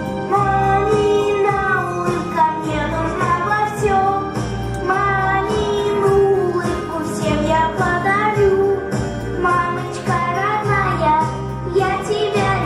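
Children singing a song together over a recorded backing track with a steady beat.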